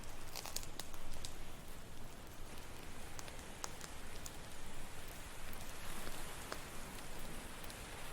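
Campfire crackling, with irregular sharp pops and snaps over a steady hiss of ocean surf.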